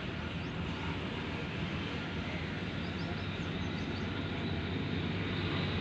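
Ford 3610 tractor's three-cylinder diesel engine running steadily.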